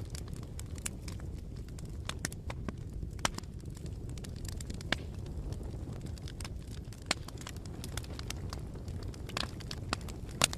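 Bonfire burning: a steady low rumble of flames with frequent irregular crackles and sharp pops of burning wood, a couple of louder pops near the end.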